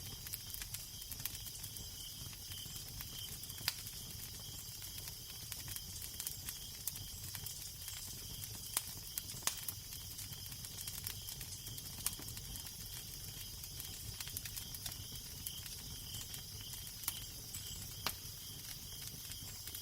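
Wood fire crackling, with scattered sharp pops over a steady hiss, and a low wind rumble beneath it.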